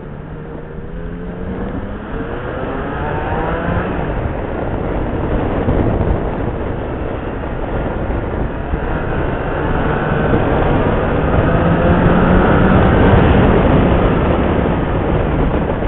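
Motorcycle engine pulling under acceleration, its pitch rising over the first few seconds and again later, with wind rush on the rider's microphone growing louder as speed builds.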